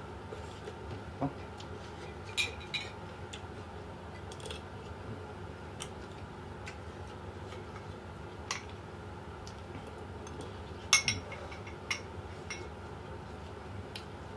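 Cutlery clinking against dishes: scattered single clinks, the loudest pair about eleven seconds in, over a steady low background hum.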